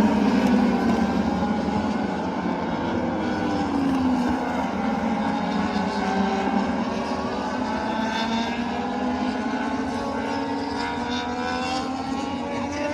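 MotoGP racing motorcycles going past on the warm-up lap, several engine notes overlapping. The pitch falls over the first few seconds, then several engines climb in pitch as they accelerate away.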